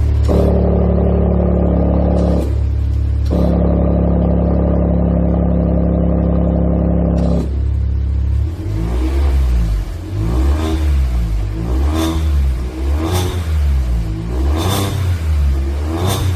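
Kia Stinger engine through a titanium valved aftermarket exhaust, running at a steady speed for about seven seconds. Its tone thins out briefly around the third second. It is then revved repeatedly, the pitch rising and falling about every second and a half, with sharp cracks from the exhaust at several of the rev peaks.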